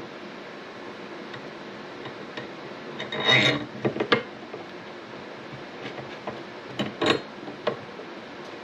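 Metal monitor-arm mounting parts clinking and knocking as they are handled and fitted together: a cluster of clatters about three seconds in and another around seven seconds, with lighter ticks between.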